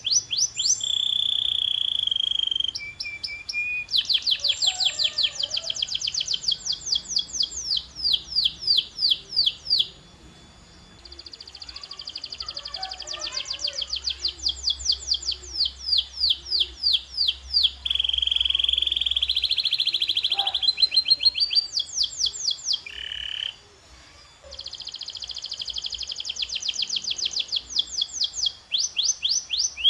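Domestic canary singing its rolling song. Runs of rapid, evenly repeated sweeping notes alternate with short steady trills, with two brief pauses, one about a third of the way in and one about four-fifths of the way in.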